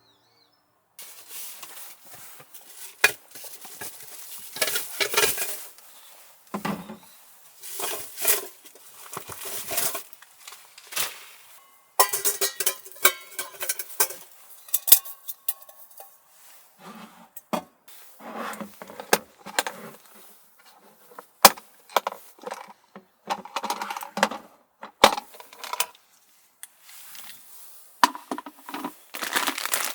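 Irregular clinks, knocks and rustles of things being handled, starting about a second in and going on in uneven bursts with some sharp clicks.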